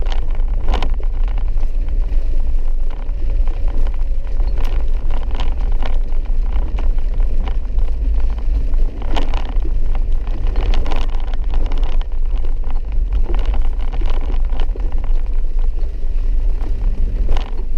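Inside a car's cabin on a rough, muddy dirt road: a steady low rumble of engine and tyres, with scattered knocks and jolts as the car goes over bumps.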